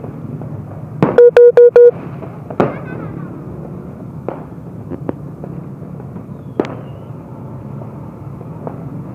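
New Year fireworks banging at irregular intervals, scattered sharp cracks over a steady background hum. About a second in, a horn sounds four quick, very loud blasts on one steady note, the loudest sound here.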